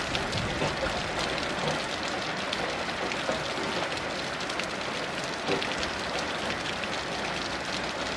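Heavy rain falling steadily, a dense even hiss with many separate drop hits heard through it.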